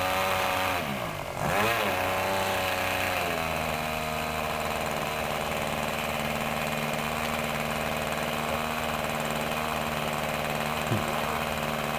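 Small model-airplane engine running fast. Its pitch dips sharply and comes back about a second in, then it drops to a steady lower idle at about three seconds in and holds there.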